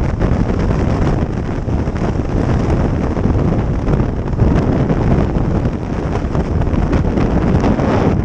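Wind buffeting the microphone of a moving motorcycle, with vehicle and road noise underneath; steady and loud throughout.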